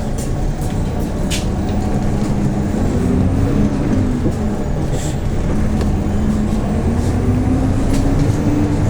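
Hyundai New Super Aero City CNG city bus engine pulling under acceleration: its pitch rises and then drops about four seconds in, as at a gear change, then climbs again and drops once more near the end. A few sharp clicks are heard over it.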